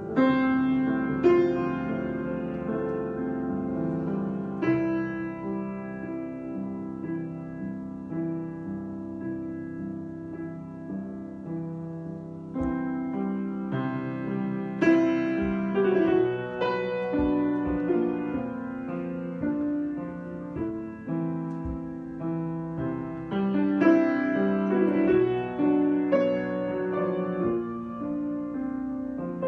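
Solo piano improvisation: sustained chords and melody notes struck over a held bass, swelling fuller a little past halfway and again near the end.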